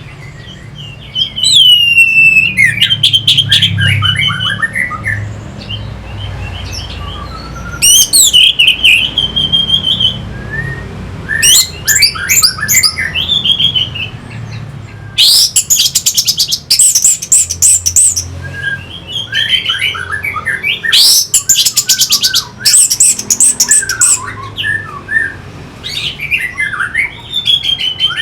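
Orange-headed thrush singing: a run of varied whistled phrases with rising and falling glides, broken by short pauses, and twice a fast, high chattering trill in the middle of the song.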